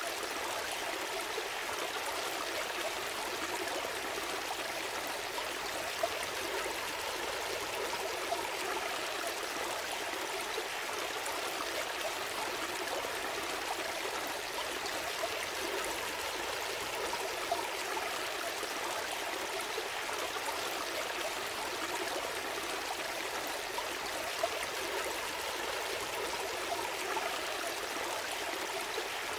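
A gentle stream flowing steadily, water running and trickling over stones with an occasional small splash.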